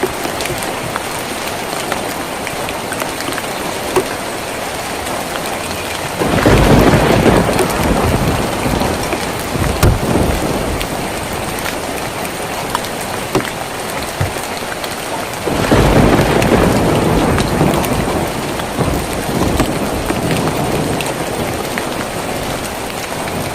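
Steady rain drumming on a tin roof, with two deep rolls of thunder that start suddenly about six seconds in and again about sixteen seconds in, each rumbling for a few seconds before fading back into the rain.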